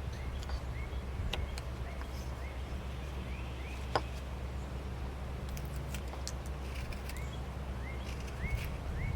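Carving knife taking small smoothing cuts in wood: faint scattered clicks and scrapes, with one sharper click about four seconds in. Under it, a steady low hum and a short rising chirp repeating about twice a second.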